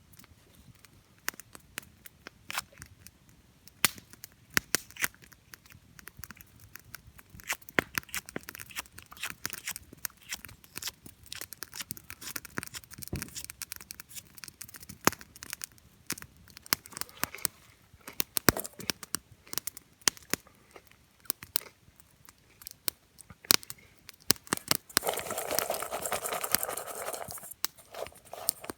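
Wood campfire crackling, with irregular sharp pops throughout. Near the end there is a louder rushing hiss lasting about two seconds.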